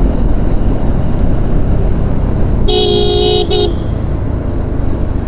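Wind rushing over a motorcyclist's microphone as the bike, a Yamaha R15 V4, runs at speed on a highway. About three seconds in, a vehicle horn sounds: a blast of under a second, then a short second toot.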